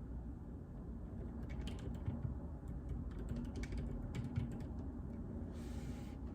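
Typing on a JJK84 mechanical keyboard with Outemu Silent Peach linear switches: a run of soft, dampened keystrokes through the middle, then a brief rustle near the end, over a steady low hum.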